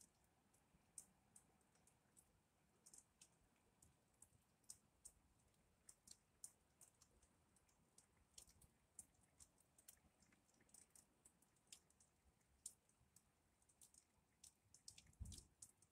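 Faint, irregular ticking of raindrops striking the window glass, several small ticks a second, with one soft low thump near the end.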